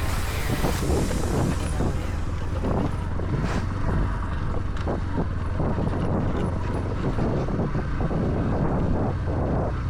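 A vehicle's engine running steadily during an off-road ride, with wind buffeting the microphone and irregular knocks and rattles from the rough track.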